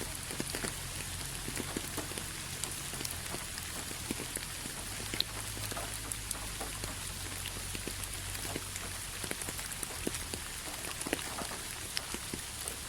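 Steady rain, many separate drops ticking over an even hiss.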